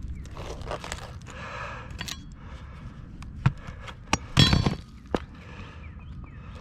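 Asphalt roofing shingles being lifted and worked by hand: a few sharp clicks and knocks, with a louder scraping crack lasting about half a second around four and a half seconds in.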